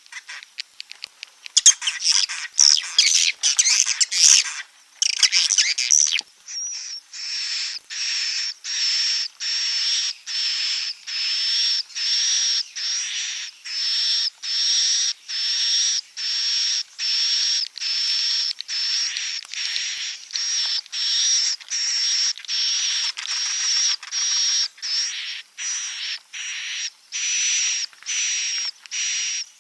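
Swiftlet roosting ('inap') calls of the kind played in swiftlet houses to lure the birds in to roost. A few seconds of dense, irregular chirping twitter, then a buzzy high call repeated evenly, a little more than once a second.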